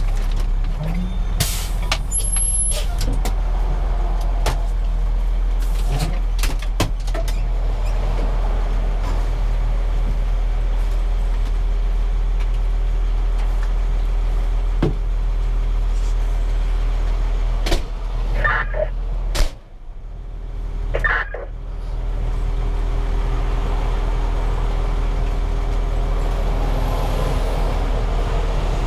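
A fire engine's Cummins 6CTA 8.3 turbo-diesel idling steadily, heard from inside the cab, with scattered clicks and knocks from the cab and its equipment. Around twenty seconds in the sound briefly drops and there are a few knocks, then the steady idle returns.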